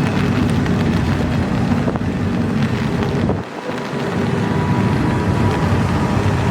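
Long intermodal freight train rolling slowly past, with a steady low rumble of its cars and wheels and wind buffeting the microphone. A faint steady high tone comes in about four seconds in.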